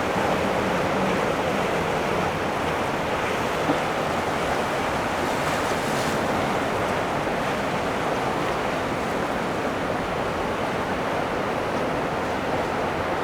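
Steady rushing noise of wind and moving water, even and unbroken.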